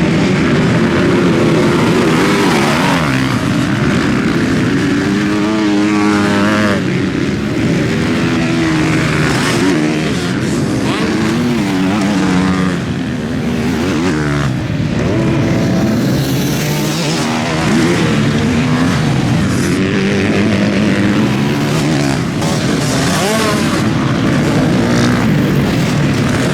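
Several motocross bikes racing, their engines revving hard and dropping back over and over as riders change gear and go past, the engine notes overlapping.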